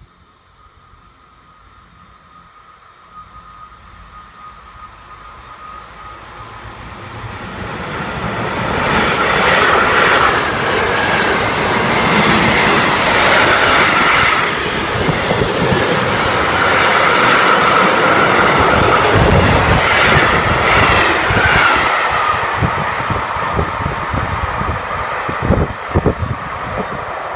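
A train approaching and passing close by: a faint steady whine as it nears, then about fifteen seconds of loud rushing wheels and clatter over the rail joints, easing off as it moves away, with a few heavy thumps near the end.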